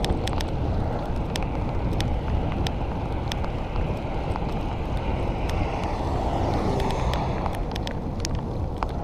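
Wind rushing over the microphone of a cyclist riding in the rain, a steady rumble with tyre hiss on the wet road. Scattered sharp ticks run through it, and the hiss swells about six to seven seconds in.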